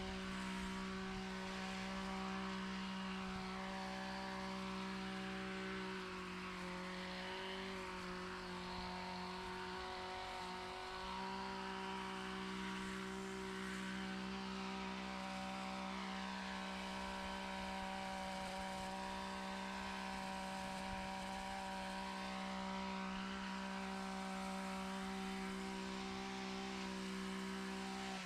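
Small gasoline engine of yard equipment running steadily at high speed, a constant even drone.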